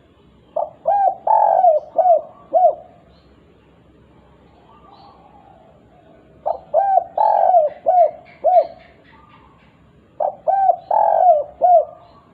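Spotted dove (derkuku) cooing in the "kuk 2" style: three repeated phrases, each a string of coos with a longer middle note and two short "kuk" notes at the end. This is a lure recording meant to set other doves calling.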